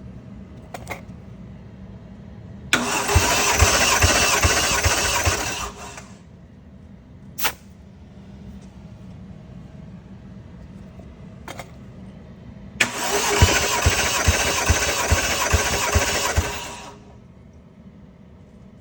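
Toyota 1JZ-GTE VVTi inline-six being cranked on its starter for a compression test, twice, each time for about three seconds, with rhythmic low pulses as the cylinders come up on compression. The engine does not fire. A few short sharp sounds fall between the two cranks.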